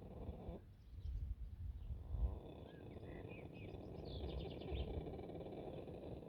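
Small birds chirping a few times, high and brief, over a steady low noise with occasional deeper rumbles.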